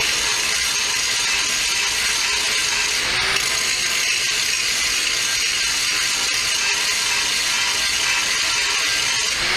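Angle grinder grinding down fresh weld beads on a steel plow, a steady high-pitched grinding hiss.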